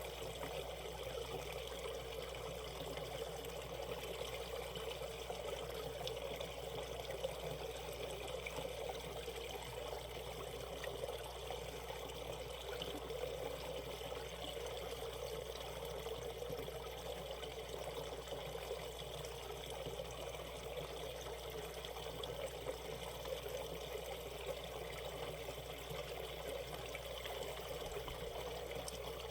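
Valley stream water trickling and splashing steadily over rocks.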